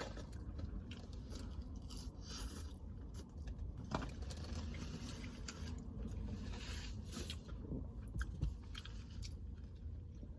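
A person chewing and biting food close to the microphone, with crunches and small clicks; the loudest crunch is about 4 seconds in, with more between about 6 and 8 seconds in.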